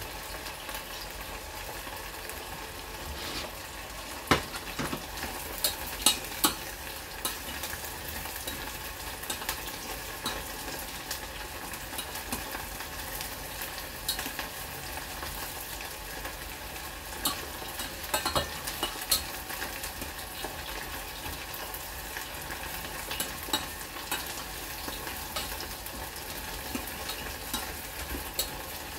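Pork ribs frying in hot oil in a stainless steel saucepan: a steady sizzle, with scattered sharp clicks of metal tongs against the pot as the pieces are turned.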